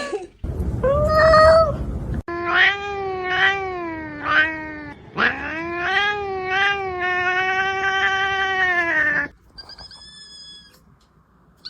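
A domestic cat meowing: a first call over a rough low rumble, then three quick meows, then one long drawn-out meow of about four seconds that cuts off suddenly.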